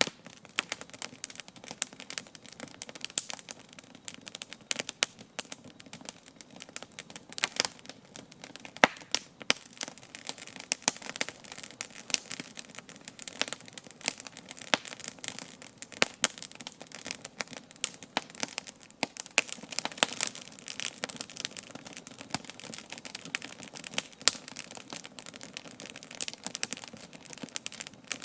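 Wood campfire crackling: a continuous, irregular run of sharp pops and snaps of varying loudness over a faint steady hiss of the flames.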